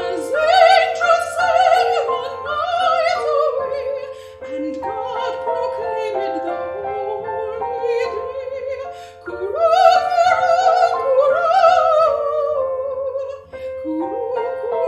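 Classically trained soprano singing with wide vibrato over piano accompaniment. She sings two loud, high phrases, the first right at the start and the second about nine seconds in, with softer, lower singing and held piano notes between them.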